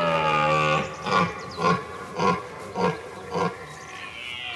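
Red deer stag belling in the rut: one long roar falling in pitch, then a string of five short grunts about every half second.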